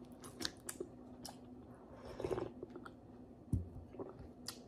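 A person chewing a mouthful of boiled pork hock and vegetables, with small wet mouth clicks, a brief louder smacking patch about two seconds in and a soft low thump near the end.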